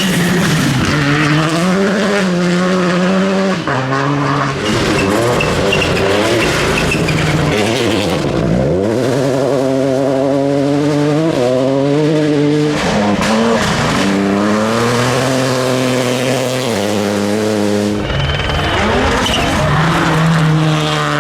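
Rally car engines at full throttle on a gravel stage, the pitch climbing and dropping again and again through gear changes and lifts as cars pass.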